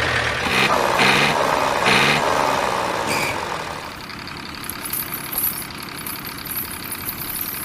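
Vehicle engine revving, its pitch rising and falling over the first three seconds, then settling to a quieter, steady running from about four seconds in.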